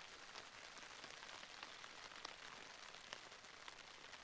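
Light rain falling, many separate drops ticking.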